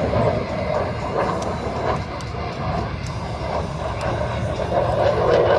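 Military jet aircraft flying during an air show display: steady, loud jet engine noise.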